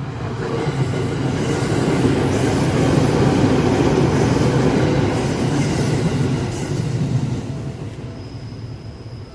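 A Seibu Railway electric train passing close by, its wheels rumbling on the rails. The sound swells over the first couple of seconds, is loudest in the middle, and fades away near the end.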